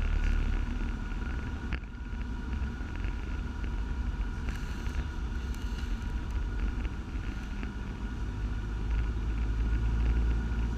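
Cessna 172's piston engine and propeller droning low and steady at reduced approach power inside the cockpit, with a faint steady high whine over it.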